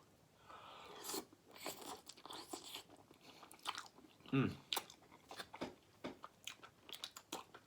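Close-miked eating: chewing with irregular wet mouth clicks and smacks.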